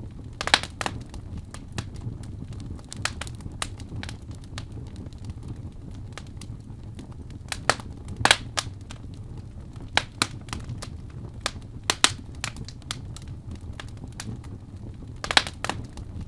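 Wood fire burning in a fireplace: a steady low rumble of flame with irregular sharp crackles and pops from the burning logs, a few louder pops standing out.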